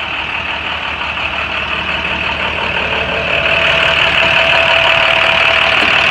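International 4300 truck's DT466 diesel engine idling steadily, growing louder over the first few seconds and then holding.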